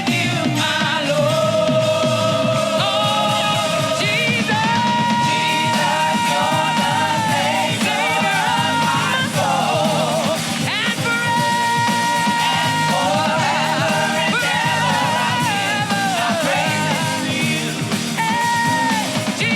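Gospel praise band playing with singing. Many of the sung notes are long and held.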